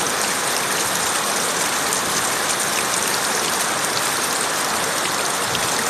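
Heavy rain pouring down steadily: a dense, even hiss at a constant level, with a few faint drop ticks.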